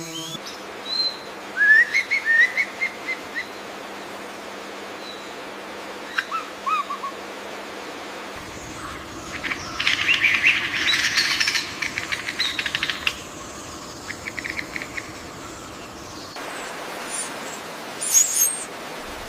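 Birds calling over a steady hiss of forest background: a few short rising chirps, then a dense burst of chattering for about three seconds midway, and high-pitched calls near the end.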